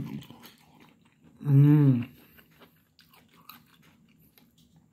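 A person chewing a mouthful of cooked zucchini, with faint crunching and small clicks. About a second and a half in comes a loud hummed 'mmm' of enjoyment.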